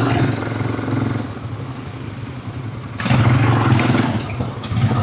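Quad bike engine running, easing off after about a second and picking up again about three seconds in.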